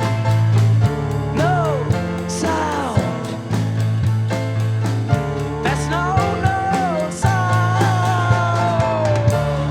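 A rock band playing live, with no words sung: a melodic lead line slides and bends in pitch over a steady bass and a drum beat.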